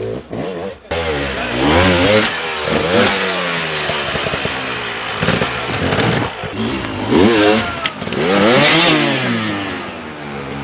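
Off-road dirt bike engines revving hard in repeated bursts, the pitch climbing and dropping again and again, with the loudest surge near the end.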